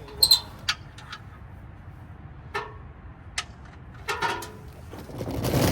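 Scattered metallic clicks and clinks of hand tools, such as sockets, being handled, with a louder rustling swell near the end.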